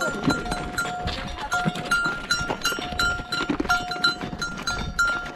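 A bell on a walking animal ringing in short, uneven clanks again and again, with scattered clicks and knocks.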